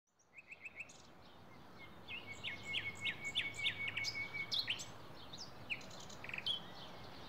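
Small birds chirping and twittering, with a run of quick, repeated upward-sweeping notes in the middle, over a steady, faint background of outdoor noise.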